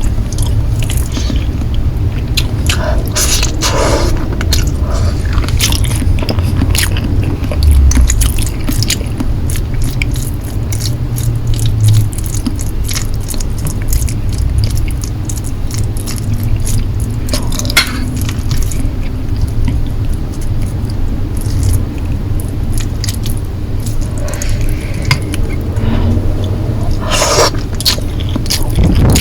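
Close-miked chewing of Korean noodles, with many quick wet mouth clicks and a steady low rumble, and a few longer noisy swells about three, seventeen and twenty-seven seconds in.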